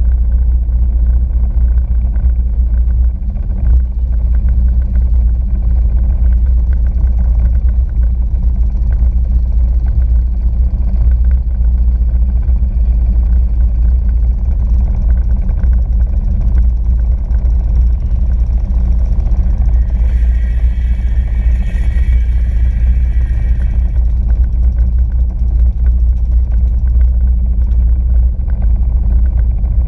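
Sea-Doo RXP-X 260 jet ski's supercharged three-cylinder engine running loud and steady, a dense low rumble with no break. A higher whine joins for a few seconds about two-thirds of the way through.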